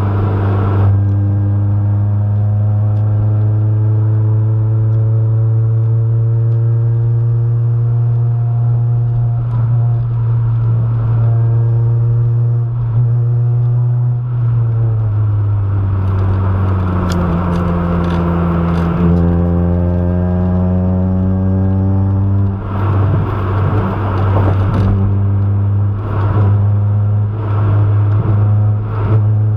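1996 Honda Civic coupe's four-cylinder engine, heard from inside the cabin, droning at highway speed over road noise. Its pitch climbs slowly, drops about halfway through, then climbs again as the manual-gearbox car pulls harder.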